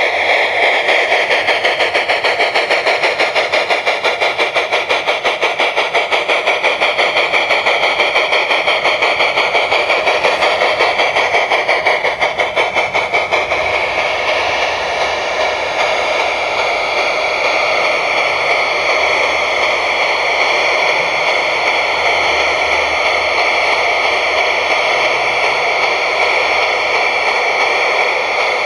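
Steam sound from the Märklin Gt2 4/4 Mallet tank locomotive's onboard sound system as the model gathers speed under inertia control: regular exhaust chuffs that quicken, blending into a continuous rushing sound about halfway through.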